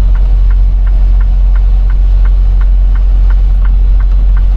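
Semi truck's engine and road noise droning steadily inside the cab while driving, with a light regular ticking about three times a second.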